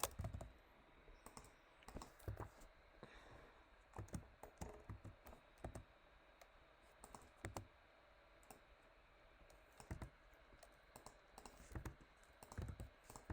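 Faint, irregular clicking of a computer mouse and keyboard keys, scattered sharp clicks a fraction of a second to a second apart over a quiet background hiss.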